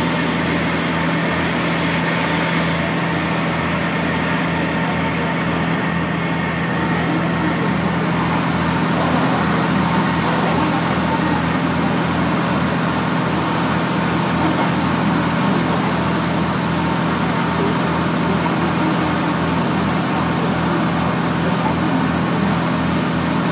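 Steady running noise heard inside a moving diesel railcar: the engine's constant low hum under an even rumble of wheels on rail.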